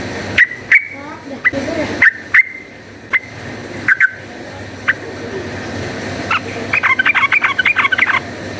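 Yellow-vented bulbul (trucukan) calling: a string of short, sharp 'cuk' notes, then near the end a rapid bubbling chatter of notes.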